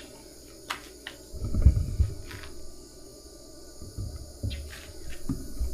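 Insects chirping steadily in the background, with a loud low rumbling bump about a second and a half in and a few soft clicks and low knocks near the end.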